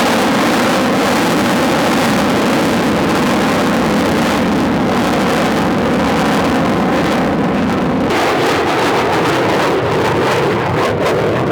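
Loud, steady jet roar from a classic F/A-18 Hornet's twin General Electric F404 afterburning turbofans during a display.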